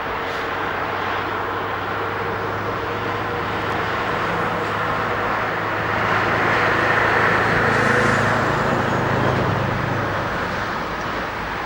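Diesel train engine running with a steady low hum, growing louder to a peak about two-thirds of the way through, then easing off.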